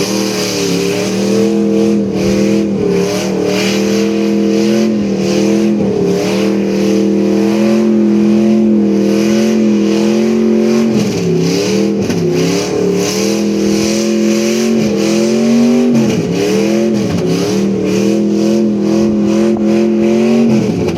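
The Scrap Iron Custom car's engine is held at high revs with a steady pitch during a burnout. The revs dip briefly and climb back three times, about halfway in, near three-quarters and just before the end.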